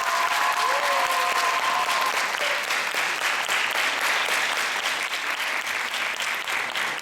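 Audience applauding steadily, with a few voices calling out held, rising cheers over the clapping in the first two seconds.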